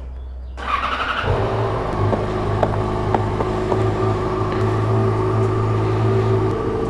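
Yamaha motorcycle engine started on the electric starter: a short crank just under a second in, then it catches and settles into a steady idle.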